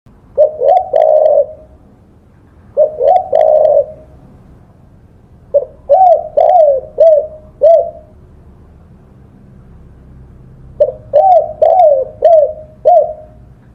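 Spotted dove (tekukur) cooing: four short phrases of low hooting coos, each a quick run of two to five notes, a few seconds apart.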